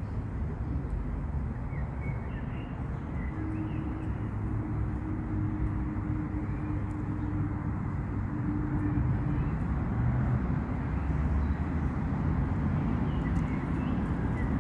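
Steady low outdoor rumble of city-park background noise, with a faint steady hum through the middle and a few faint bird chirps.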